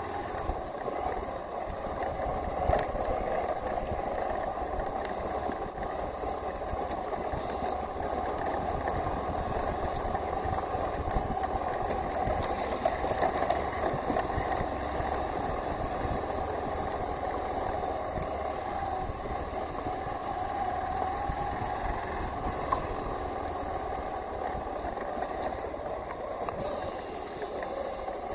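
Hero Xpulse 200 4V's single-cylinder engine running steadily while the bike rides an off-road trail, with a few short sharp knocks from the bike over the rough ground.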